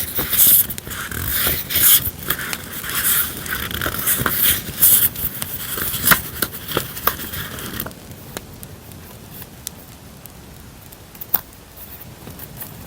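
Paper stationery being handled, with rustling and scraping for about eight seconds, over a crackling campfire sound track. After that, only the campfire crackle remains, with a few sharp pops.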